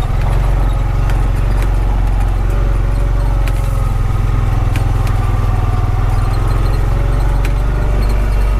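A Honda Pioneer 520 side-by-side's single-cylinder engine running steadily while driving, with occasional sharp clicks and rattles.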